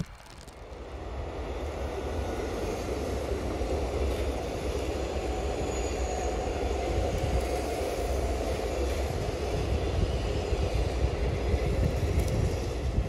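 A train running past on the rails, a steady rumble of wheels with a hiss over it, building over the first couple of seconds and then holding.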